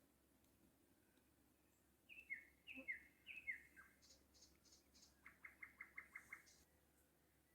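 Songbirds singing faintly. After about two seconds of quiet comes a string of short downward-sliding whistled notes, then a few high chirps, then a quick run of about seven short notes.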